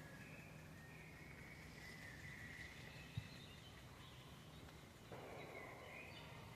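Faint forest ambience with songbirds calling in short, wavering high phrases, and one sharp tap a little past the middle. A soft rustling comes in near the end.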